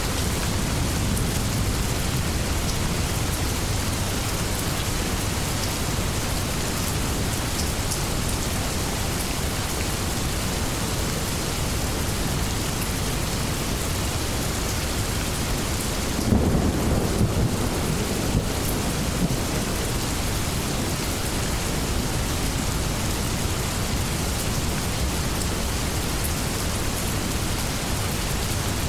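Steady heavy rain, with a rumble of thunder that swells up about halfway through and fades over two or three seconds.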